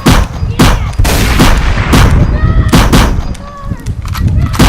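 Gunfire: a string of sharp, loud shots, about two a second, easing off near the end before one last shot.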